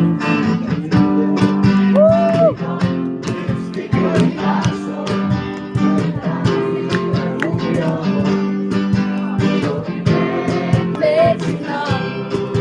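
Acoustic guitar strummed in a steady rhythm, with a voice singing a melody over the chords.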